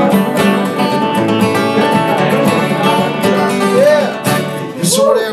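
Acoustic guitars playing an instrumental passage of a country-folk song, a strummed rhythm guitar under a picked lead guitar line with a few bent notes.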